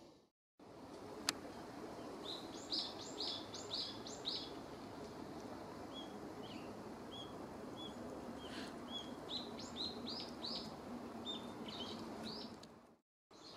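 A wild songbird singing: phrases of five or six quick high notes in a row, with softer single notes between, over a steady outdoor background hiss. A single sharp click sounds about a second in, and the sound drops out briefly at the start and near the end.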